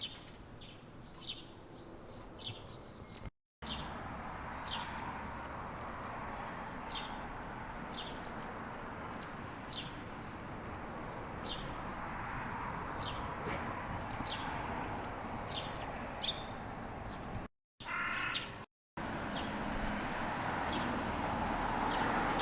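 Small wild birds chirping repeatedly in short, sharp, high notes about once or twice a second. A crow caws loudly once, a little over three quarters of the way through.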